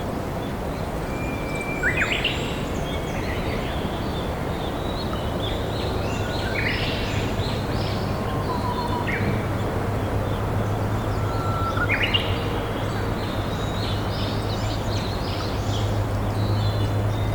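Japanese bush warbler (uguisu) singing its hoo-hokekyo song three times, each a long held whistle breaking into a quick rising flourish, over the steady rush of a flowing river. Other small birds chirp higher up, and a low steady hum comes in about five seconds in.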